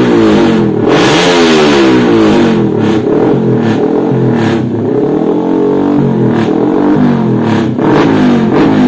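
Motocross motorcycle engines revving hard on a track. The pitch climbs and drops repeatedly as the bikes rev up and come off the throttle.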